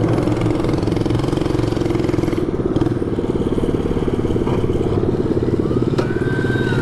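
Harbor Freight Predator 224cc single-cylinder four-stroke engine with a short straight-pipe exhaust and an aftermarket carburettor, running steadily under way on a mini bike.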